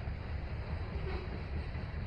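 Manifest freight train rolling past with a steady low rumble, mixed with wind noise on the microphone.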